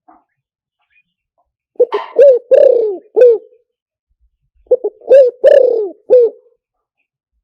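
Spotted dove cooing: two phrases of about five short coos each, a second or so apart. The fourth coo in each phrase is longer and falls in pitch.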